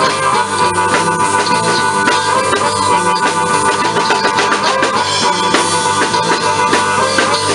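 Live blues band playing an instrumental passage, with a drum kit keeping a steady beat of kick, snare and rimshots under sustained guitar or keyboard notes.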